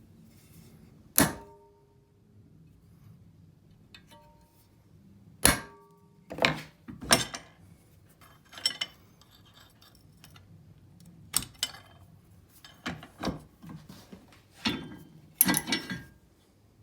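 Small metal tools and a metal workpiece clinking and tapping on a workbench: two sharp strikes that ring briefly, then a string of irregular clinks and taps.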